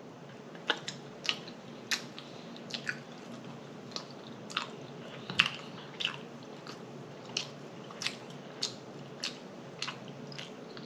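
A person chewing and eating ribs close to the microphone: wet mouth smacks and clicks, a bit more than one a second, irregular.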